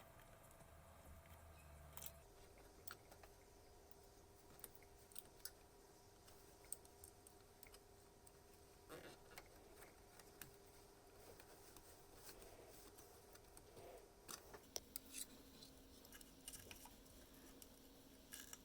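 Near silence: faint room tone with a faint steady tone that steps down in pitch twice, and scattered light clicks.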